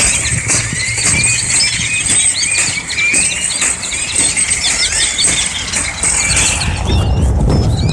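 A large mixed flock of grackles and small finches calling all at once: many overlapping short rising squeaks and chirps in a dense chorus, over a low rumble.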